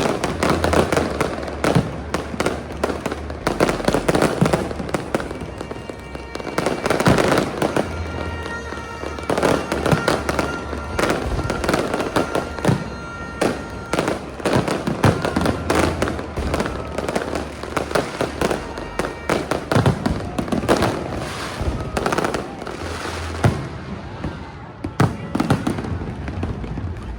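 A New Year fireworks display going off: a dense, continuous run of bangs and crackles. Music plays underneath.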